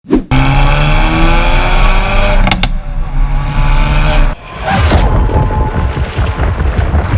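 Hyundai i30 N Fastback's 2.0-litre turbo four-cylinder accelerating hard: the revs climb, break briefly for a gear change about two and a half seconds in, and climb again. Just past the middle the revs drop away and the engine settles into an uneven, choppy rumble.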